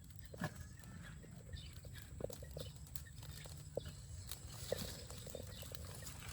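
A few scattered light knocks over a steady low rumble.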